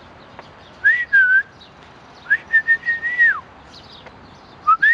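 Clear whistling in three phrases: a short note that rises and dips about a second in, a long held note that drops away at its end, and a short rising-and-falling note near the end.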